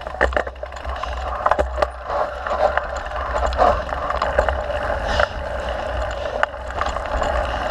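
Mountain bike riding along a dirt trail: steady rolling noise with a low rumble, broken by frequent sharp clicks and rattles from the bike.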